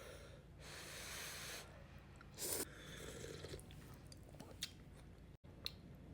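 A person eating a bowl of pho: a long slurp about half a second in, a shorter louder one about two and a half seconds in, and soft chewing between.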